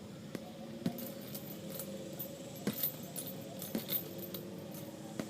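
Metal chain of a hanging heavy bag clinking and jangling lightly as the bag swings after being punched, a scatter of small irregular clicks.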